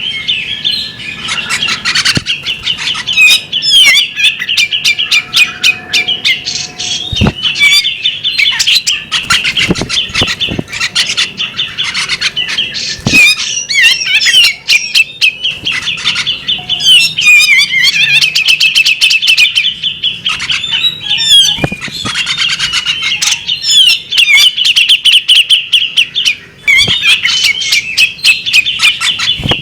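Female magpie robin singing, a near-continuous fast run of high chattering and trilling notes broken by brief pauses, with a few sharp knocks now and then.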